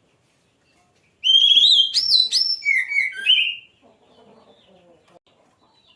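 Oriental magpie-robin (kacer) singing a loud phrase of clear whistled notes that rise and fall, starting about a second in and lasting a little over two seconds.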